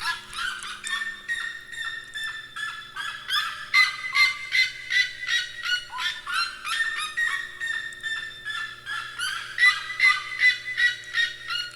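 Many birds calling together in a dense, unbroken chorus, several short calls a second overlapping.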